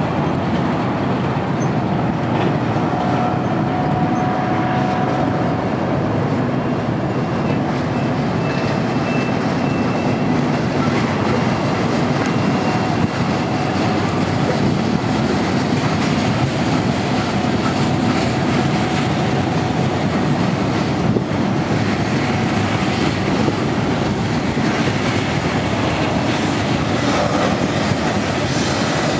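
Union Pacific freight cars rolling past at steady speed: a continuous rumble of steel wheels on rail with faint clicking, and now and then a thin wheel squeal.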